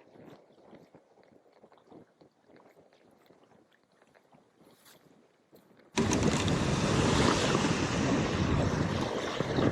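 Quiet at first. About six seconds in, loud wind noise buffeting the microphone starts abruptly, together with choppy water.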